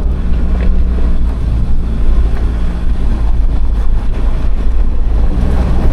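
Land Rover Defender's engine running steadily in low-range second gear with a deep, even hum, driving through a shallow river crossing.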